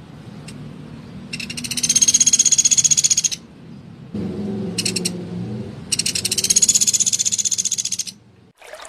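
Common flameback woodpecker (pelatuk beras) giving loud, rapid rattling trill calls. There are two long rattles of about two seconds each, with a short burst between them.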